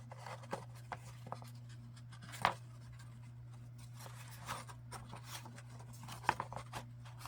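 Paper and card being handled on a work surface: soft rustles and small taps and clicks, the loudest about two and a half seconds in and a few more near the end, over a steady low hum.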